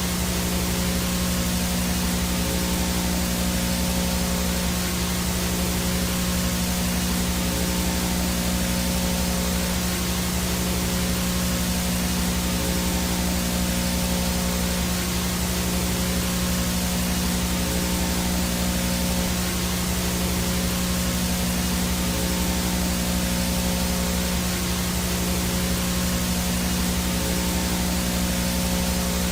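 Analog VHS static noise: a steady, even hiss of no-signal interference with a constant low electrical hum underneath.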